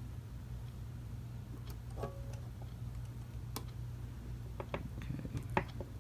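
Scattered light clicks and taps of small metal clock-movement parts and tools being handled, one with a brief metallic ring, then a quick cluster of clicks near the end, over a steady low hum.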